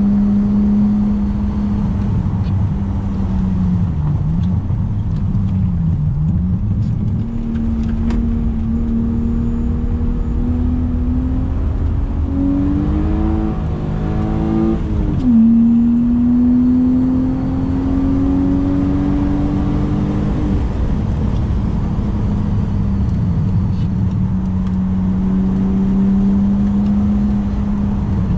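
BMW E36 328i's 2.8-litre M52 straight-six running under load on a race track, its note rising and falling with the throttle. It dips briefly twice early on, climbs steadily, revs up and down unevenly around the middle, then climbs again before dropping back to a steady note.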